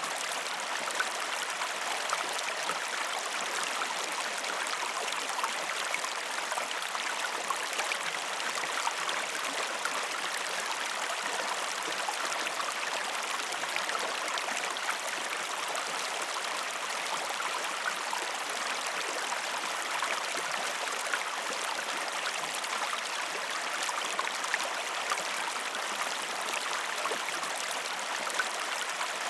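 Waterfall: falling water splashing in a steady, even rush with a light spatter of droplets, without pauses or changes.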